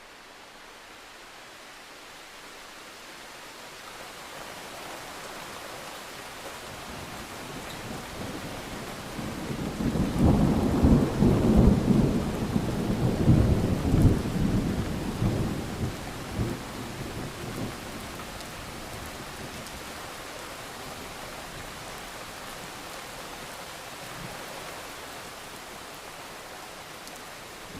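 Steady rain that swells over the first few seconds. About nine seconds in, a long rolling thunderclap rumbles for several seconds, loudest around ten to fourteen seconds, then dies back under the rain.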